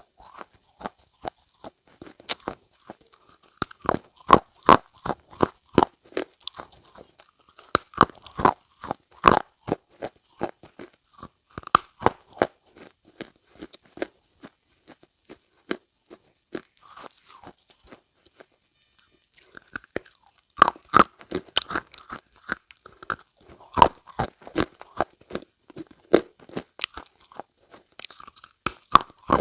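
Irregular runs of sharp, crisp crunches, with a lull of a few seconds about midway.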